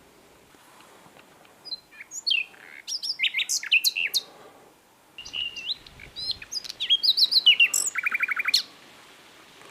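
Common nightingale singing two varied song phrases of whistled and sweeping notes. The second phrase ends in a fast trill of repeated notes near the end.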